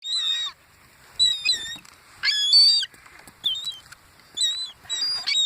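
Seagulls calling: a series of about six high-pitched, wavering calls, each about half a second long, with short gaps between them.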